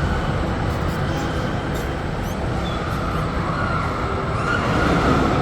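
Steady theme-park background noise: a continuous low rumble of ride machinery and hall ambience.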